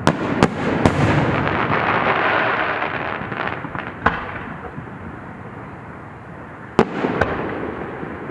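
Aerial fireworks bursting: three sharp bangs in the first second, then a spreading crackle that fades over the next few seconds. One more bang comes about four seconds in, and two more close together near the end.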